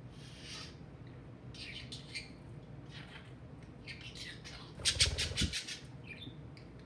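Budgerigars chattering in short, scattered squawks and chirps. About five seconds in comes the loudest moment: a quick run of clicking squawks over a low thump.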